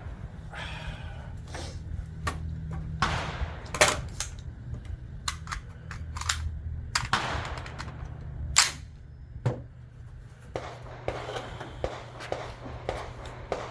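Gunfire on a rifle range: sharp reports at irregular intervals, each with a short echo. The two loudest come about four and eight and a half seconds in, over a steady low hum.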